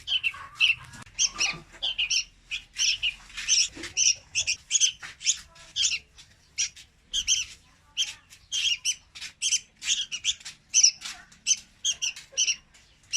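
Young red-whiskered bulbul calling: a rapid, unbroken run of short, high notes, about three a second.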